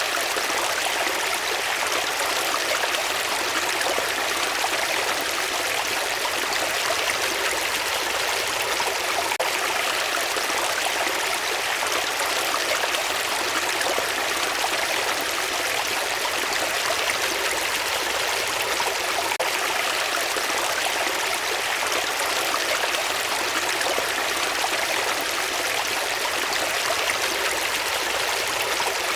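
Running water flowing steadily, an even rushing with no breaks or separate events.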